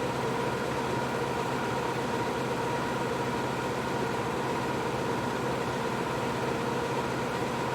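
Bambu Lab P1S 3D printer running, its fans and motors making a steady whir with a constant hum.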